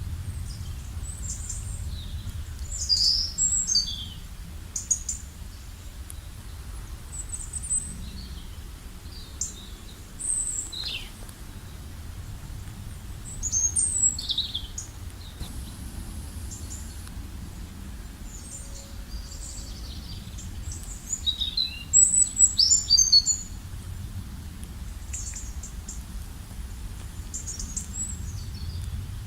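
Several birds chirping and singing in short, high calls and trills, with the busiest bursts a few seconds in, around halfway and about two-thirds through, over a steady low background rumble.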